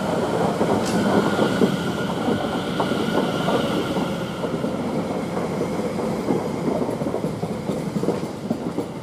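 Greater Anglia Class 720 electric multiple unit running past the platform, wheels clicking over the rail joints under a faint steady whine. The noise eases away over the last few seconds.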